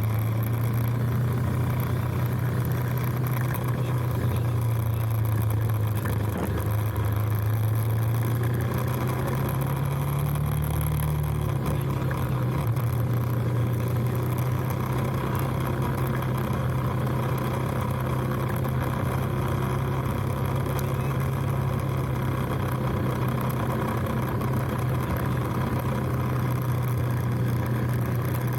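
Motorcycle engine running steadily during a ride, with its note rising briefly partway through and easing back.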